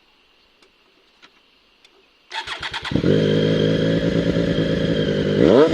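Triumph Street Triple 765 RS inline three-cylinder engine, with an Austin Racing de-cat slip-on exhaust, cranking on the starter about two seconds in. It catches within a second and settles to a steady idle, with one quick throttle blip near the end.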